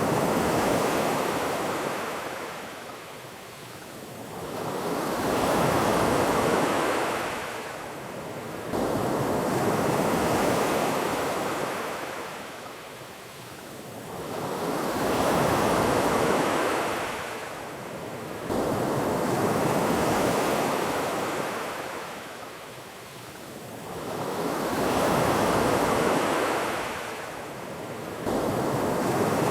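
Ocean waves breaking and washing up on a beach, the surf rising and falling about every five seconds.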